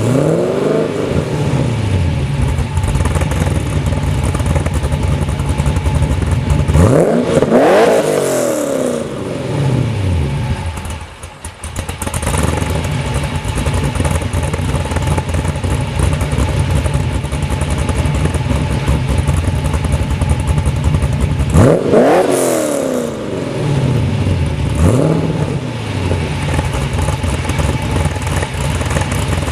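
2004 Pontiac GTO's cammed LS1 V8 running through Kooks long-tube headers and a MagnaFlow 3-inch cat-back exhaust, idling and revved hard twice, with a shorter blip near the end.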